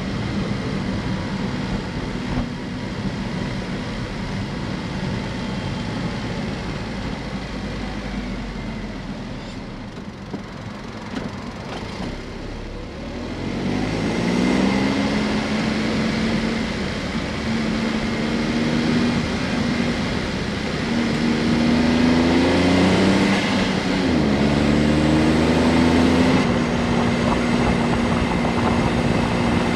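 Honda S660's small turbocharged three-cylinder engine, heard at first as a steady drone under road noise. From about halfway it accelerates: the engine note climbs in pitch several times, with a break between climbs as it shifts up, then settles into a steady note near the end.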